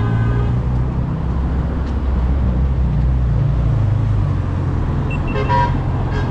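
Road traffic: a motor vehicle's engine running close by, a steady low rumble, with a few brief higher sounds near the end.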